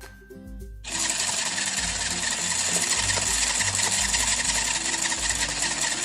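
Battery-powered toy kitchen appliance running with a steady, loud whir that starts about a second in and cuts off abruptly, over light background music.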